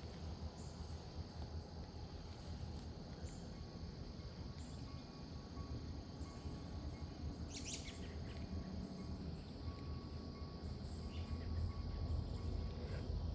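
Steady outdoor ambience: a low rumble with faint insects chirping throughout and a few bird-like chirps. A brief sharp noise about eight seconds in.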